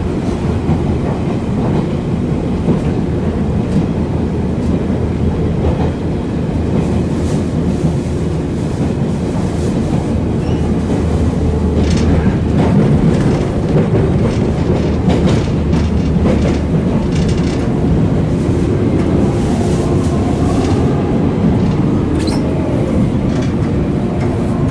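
Train running into its terminal station, heard from inside the carriage: a steady rumble with wheels clicking over rail joints and points.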